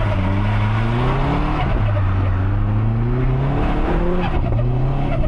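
Subaru Impreza STI's built EJ257 turbocharged flat-four accelerating hard, its pitch rising through the gears, with upshifts about a second and a half and nearly four seconds in.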